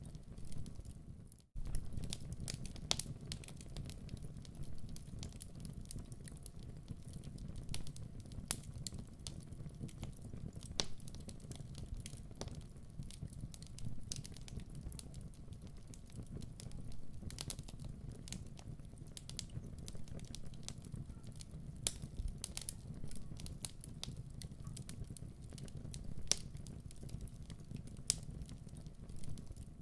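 Wood fire crackling in a fireplace: irregular sharp pops and snaps over a steady low rumble, with a brief gap about a second and a half in.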